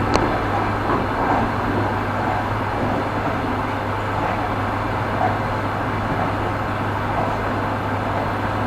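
Train running on rails: a steady rolling rumble with a low hum, and a single wheel clack just after the start.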